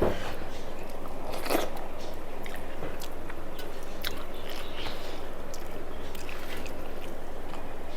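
A person chewing and eating food close to the microphone, with a few small crunchy clicks, the clearest about one and a half seconds in, over a steady background noise.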